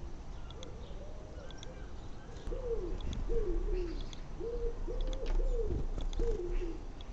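Pigeon cooing: a few faint low coos, then a louder run of about six coos from about two and a half seconds in.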